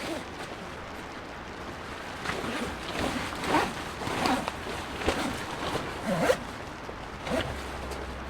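A series of short zipping or fabric-rustling swishes, about eight in a row in the middle of the stretch, over a steady background hiss.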